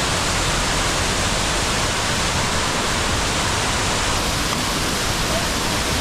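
Loud, steady rush of falling water from a mountain waterfall, an even noise with no breaks.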